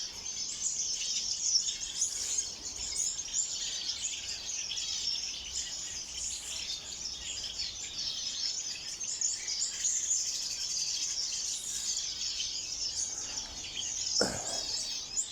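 A flock of small aviary birds chirping and twittering at once, a dense continuous chatter. A short falling sweep sounds near the end.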